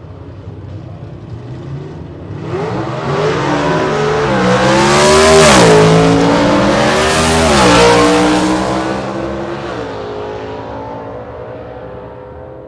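Sportbike engine at high revs passing by, growing louder, peaking twice with a drop in pitch each time, then fading away.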